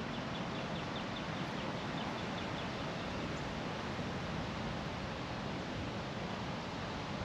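Steady wind noise on the microphone, with a faint, rapid run of high ticks in the first couple of seconds.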